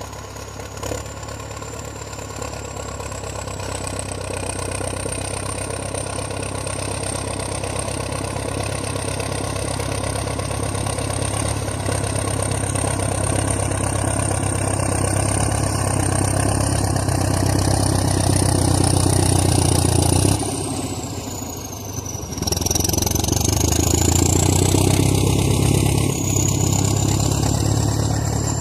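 A Soviet tractor's heavy diesel engine working under load, its sound building over about twenty seconds with a thin high whistle above the drone. About two-thirds of the way through, the engine eases off for a couple of seconds and the whistle falls in pitch, then it picks up again.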